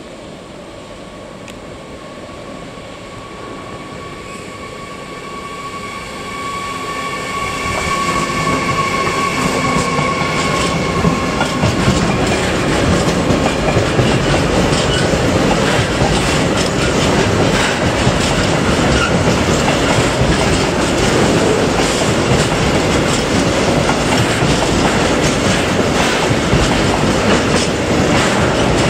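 Freight train of tank wagons approaching and passing close by, growing louder over the first eight seconds. A high steady squeal runs through roughly the first ten seconds, then gives way to the loud rumble and rapid clickety-clack of the wagon wheels over the rail joints.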